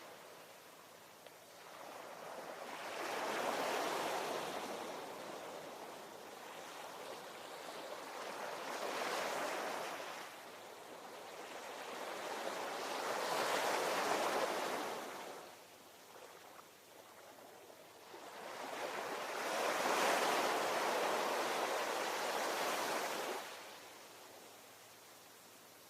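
Ocean waves breaking on the shore, each wash of surf swelling and then fading, four times over, with quieter lulls between.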